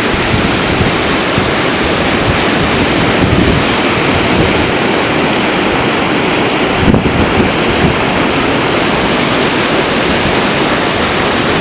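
Tall mountain waterfall rushing steadily, with wind buffeting the microphone in gusts, most strongly about seven seconds in.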